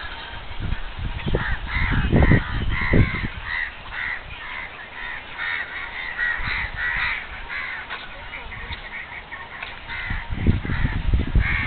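Birds calling over and over in quick succession, several short calls a second for several seconds. Low rumbling bursts on the microphone come about a second in and again near the end.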